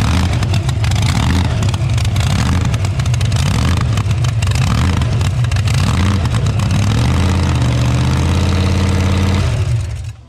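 Loud car engine running close by, its pitch rising and falling in repeated revs, then holding a steadier pitch before the sound cuts off abruptly near the end.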